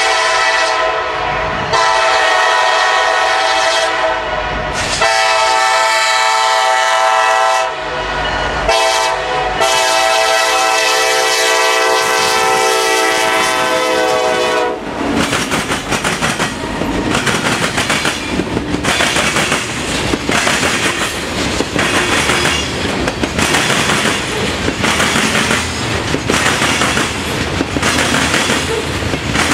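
Norfolk Southern freight locomotive sounding its horn in a series of blasts that ends long, long, short, long, the grade-crossing signal. The locomotives then pass close by, and a string of loaded freight cars follows, with a steady rhythmic clickety-clack of wheels over rail joints.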